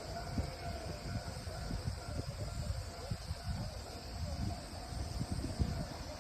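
Insects trilling steadily at a high pitch over an irregular low rumble.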